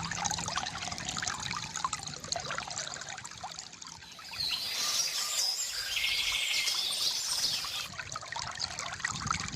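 A small stream trickling and splashing over stones. From about four seconds in, birds sing over the water, one with a rapid trill.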